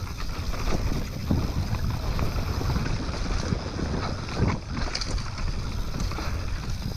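Trek Remedy 2016 full-suspension mountain bike riding down a rough trail: steady tyre rumble with repeated knocks and rattles from the bike, and wind buffeting the camera's microphone.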